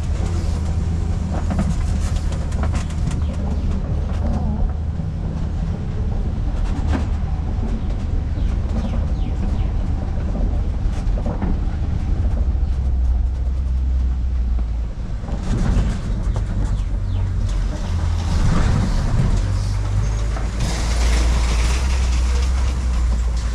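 Safari ride vehicle driving along, a steady low engine drone with scattered rattles and clatter from the vehicle.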